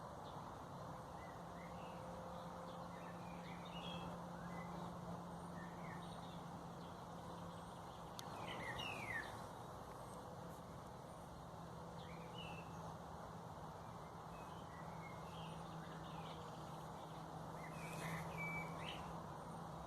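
Small birds chirping and calling in short, scattered notes, busiest about halfway through and near the end, over a steady low hum and faint background rumble.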